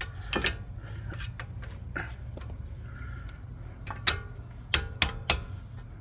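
Irregular metallic clicks and clinks of tools and brake parts being handled during rear brake reassembly, a handful of sharp knocks with the loudest near the end, over a steady low hum.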